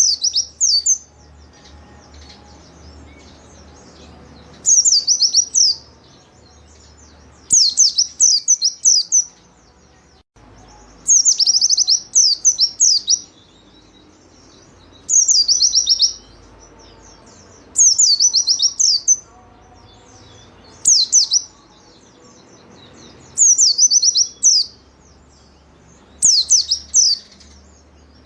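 White-eye (pleci) singing in short bursts of rapid, high, falling chirps. The bursts come about every three seconds.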